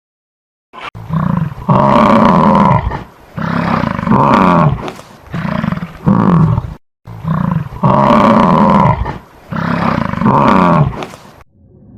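Loud, repeated animal calls: a series of long cries that rise and fall in pitch, the whole sequence repeating about halfway through.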